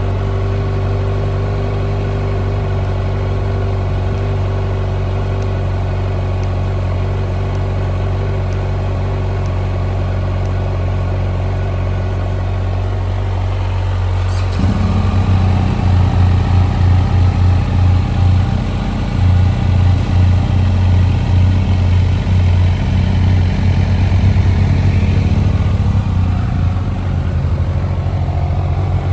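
Kawasaki Z1100's inline-four engine running at a steady idle. About halfway through it turns suddenly louder and uneven, its level rising and falling repeatedly.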